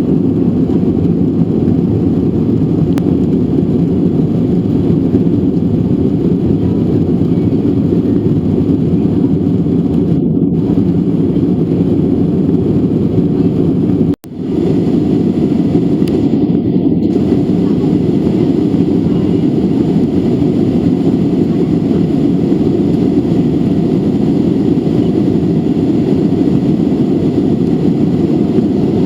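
Steady cabin noise of a Boeing 737-800 in motion: its CFM56-7B engines and airflow heard from inside the passenger cabin. The noise cuts out abruptly for a split second about halfway through, then resumes.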